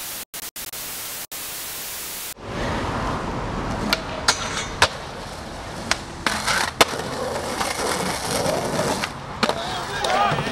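About two seconds of static hiss, broken by a few short dropouts, then skateboard wheels rolling on pavement with several sharp clacks of the board popping and landing.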